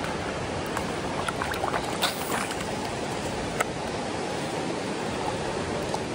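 Creek water rushing steadily, with a few short sharp clicks in the first half.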